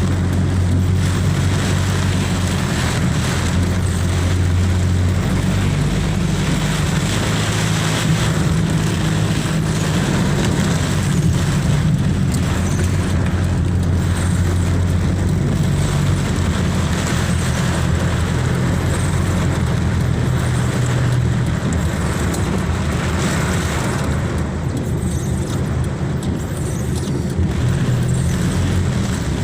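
Steady motor-vehicle noise: a car's engine hum and road noise running without a break.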